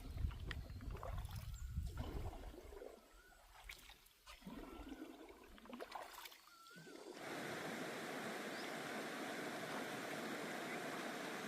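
Water splashing and trickling, with a few short faint chirps, then from about seven seconds in a sudden steady rushing hiss.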